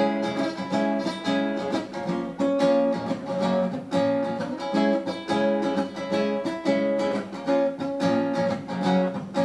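Guitar strummed in a steady rhythm, about two strokes a second: an instrumental break in a song, with no singing.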